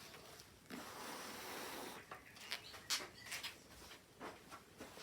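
Paint pots being moved about on a work table: a series of light knocks and clicks. Near the start there is a brief steady hiss of air lasting about a second and a half.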